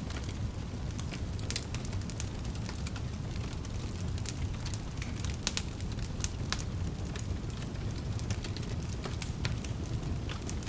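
Fire burning in a fireplace: a steady low rumble of flames under frequent, irregular sharp crackles and pops.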